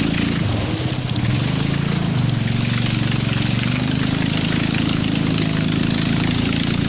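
A small engine running steadily, its pitch wavering and dipping in the first two seconds before settling.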